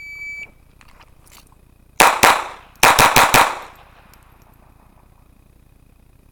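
A short electronic shot-timer beep, then a GSG 1911 .22LR pistol firing rapid shots about two seconds later: a quick pair, a brief pause, then about five more in fast succession.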